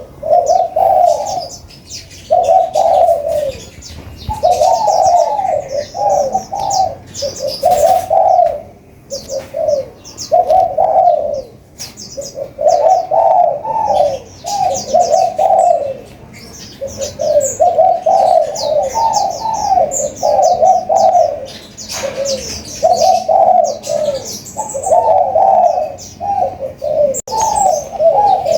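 Spotted dove cooing over and over in short phrases, with rapid high-pitched chirping from a sunbird over the top.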